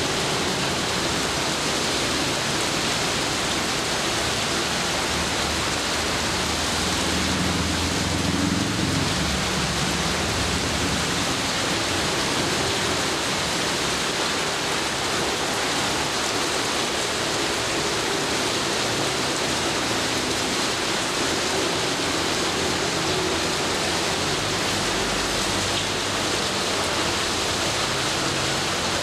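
Heavy rain falling steadily in an even hiss. About seven seconds in, a low rumble of thunder swells for a few seconds and fades.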